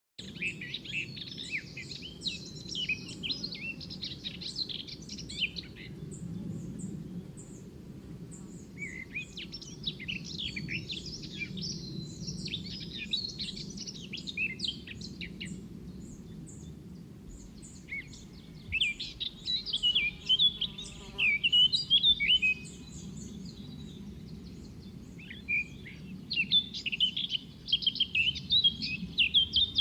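Birds singing in four bouts of rapid, jumbled chirps with short pauses between them, over a steady low background rumble.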